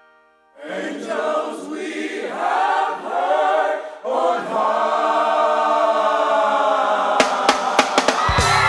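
Choir singing held, sustained notes, coming in about half a second in. Sharp percussive hits join near the end.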